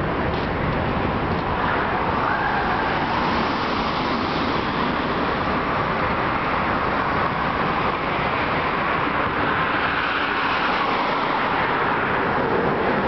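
Steady freeway traffic noise of cars and trucks passing below a highway overpass, with a faint rise and fall in pitch as vehicles go by.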